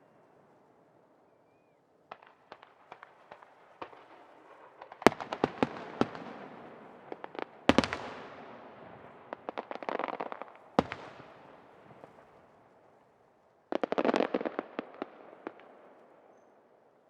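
Aerial firework shells bursting: three sharp bangs about five, eight and eleven seconds in, with rapid crackling between them and a last dense burst of crackling about fourteen seconds in. Each burst trails off in a fading echo.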